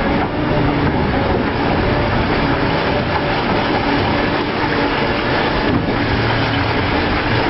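Heavy construction machinery running with a steady, loud mechanical rumble and clatter.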